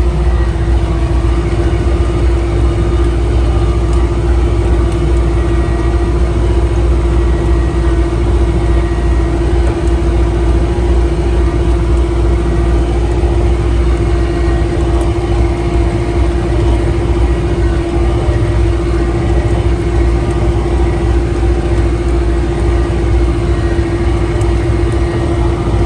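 Solis 90 tractor's diesel engine running steadily at constant speed, a continuous low rumble with a steady droning tone on top.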